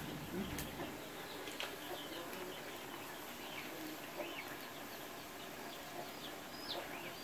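Birds chirping in the background: many short, scattered high calls, with a couple of sharp clicks early on.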